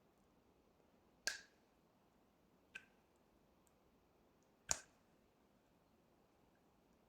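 Three sharp clicks with a short ring, about a second and a half apart, the second one fainter, against near silence.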